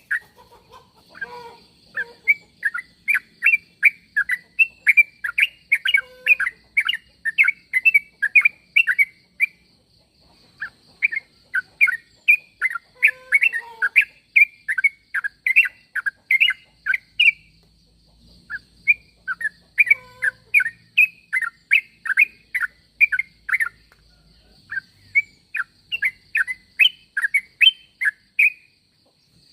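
Yellow-vented bulbul (trucuk) calling: long runs of short, bubbly rising-and-falling notes, two or three a second, broken by brief pauses, over a faint steady high-pitched tone.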